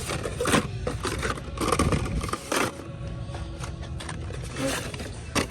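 Packaged Hot Wheels cars being handled and sorted, their plastic blister packs and card backs rustling and knocking together in a few short bursts, over faint background music.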